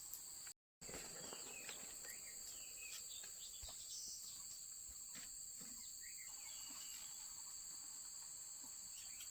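Forest insects buzzing steadily as a constant high two-toned drone, with a few faint scattered chirps. The sound drops out completely for a moment just under a second in.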